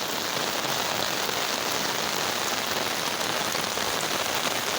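Heavy rain falling steadily and pattering on surfaces, an even hiss with no let-up.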